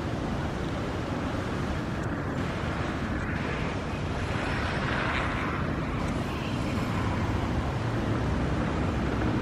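Steady low rumble of motor traffic, growing a little louder toward the end.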